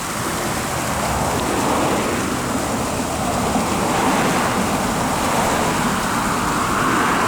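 Waterfall: a steady rush of falling water, swelling slightly in loudness now and then.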